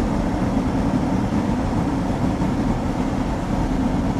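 Steady road and engine noise inside a moving car's cabin, a low even rumble with no breaks or changes.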